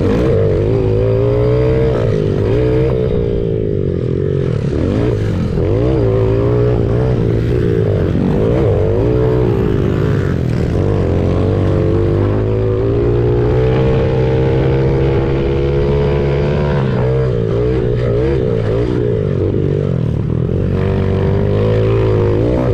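Honda CRF70 pit bike's small single-cylinder four-stroke engine revving hard in a race, its pitch climbing and dropping again and again as it accelerates, shifts and backs off, with other pit bike engines weaving around it.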